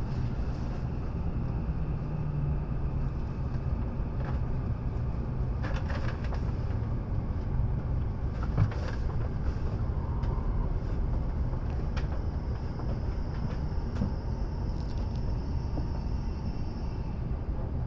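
Steady low rumble inside a W7 series Shinkansen carriage, with a few faint clicks and knocks.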